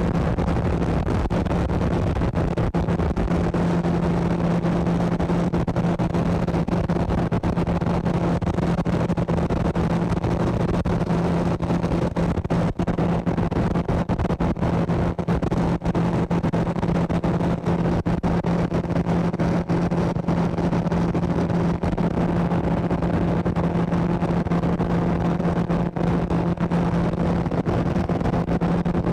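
Motorboat engine running at a steady cruising speed, one unchanging hum over a continuous rushing noise of wind and water.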